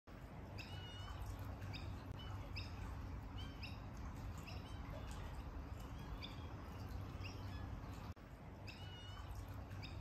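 A bird chirping repeatedly in short, high calls about once a second, over a steady low mechanical hum from the running pool cleaner system.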